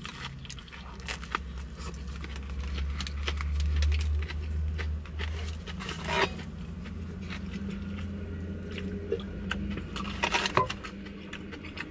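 Crusty bánh mì being bitten and chewed close to the microphone, with many small crackling crunches of the bread crust, over a low steady rumble.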